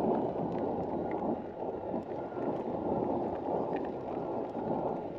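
Wind buffeting the microphone of a moving e-bike, with a steady rumble from the tyres rolling over a loose-gravel track.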